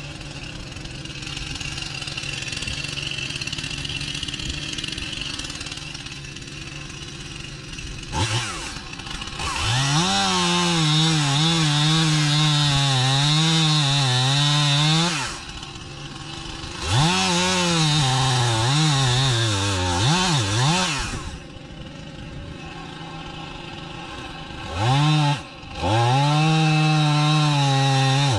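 A two-stroke chainsaw running steadily at low speed, then revved to full throttle and cutting into wood, its pitch wavering under load. This happens in three bouts, about ten, seventeen and twenty-five seconds in, with the saw dropping back toward idle between cuts.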